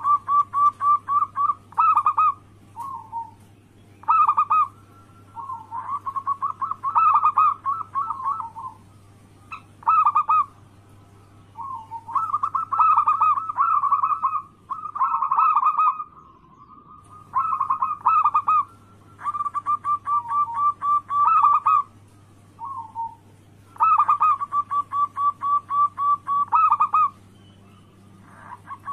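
Zebra dove (perkutut) cooing: repeated phrases of rapid, evenly spaced coo notes, each phrase lasting two to three seconds with short pauses between, over a low steady hum.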